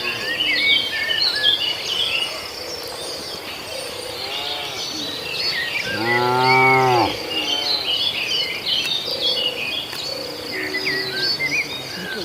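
Cattle mooing: one loud, low moo lasting about a second near the middle, with fainter moos before and after it. Birds chirp throughout.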